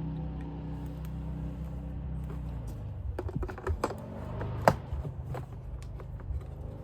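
Small metal driver bits and tools being handled and swapped: a run of light clicks and clatter beginning about halfway, with one sharper click in the middle, over a low steady hum.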